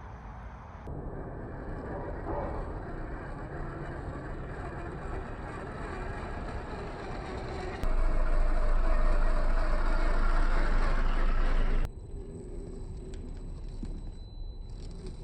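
1/8-scale RC rock crawler driving over rough ground: electric motor and gearbox running with tyres crunching on dirt and rock, heard in separate cut-together takes. A louder stretch of low rumble lasts about four seconds in the middle.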